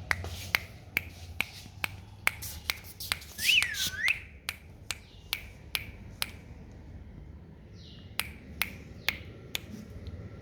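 Sharp clicks repeating about two to three times a second, pausing for about two seconds before a few more near the end, with one short whistle that falls and then rises, about three and a half seconds in.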